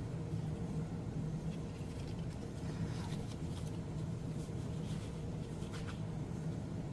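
Air conditioner running with a steady low hum. Through the middle there are faint, scattered rustles and taps of paper being handled.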